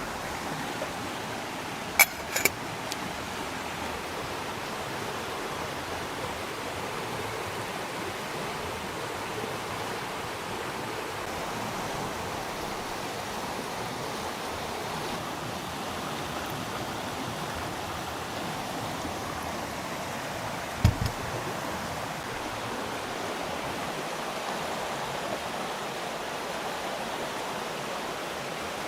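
Steady rush of running stream water. Two sharp clicks come about two seconds in, and a short dull knock comes about two-thirds of the way through.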